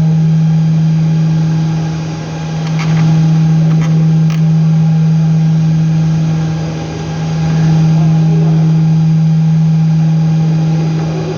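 A loud, steady, low electrical hum on one pitch, with a few faint clicks a few seconds in.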